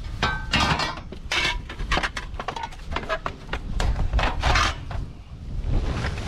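Items in a kerbside rubbish pile being handled and shifted: an irregular run of clattering knocks, rattles and scraping, with a brief lull about five seconds in.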